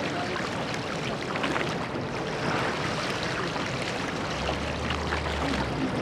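Water splashing and rushing around a rowing boat under way, with brighter splashes every second or so. A low steady hum comes in about four seconds in and lasts just over a second.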